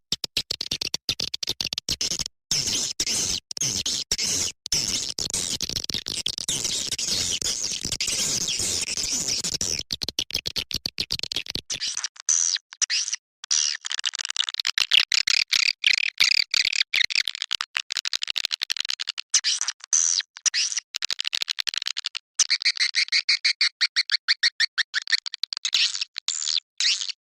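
Swiftlet lure-call recording: fast, chattering twitters of swiftlets, the kind played from bird houses to draw swiftlets in to nest. For about the first ten seconds a coarse, scratchy noise runs under the chatter; after that the twittering sounds cleaner and higher.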